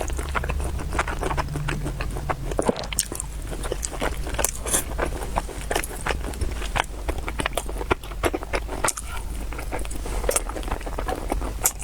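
Close-miked eating sounds: chewing and biting, with many quick, irregular wet smacks and clicks of the mouth.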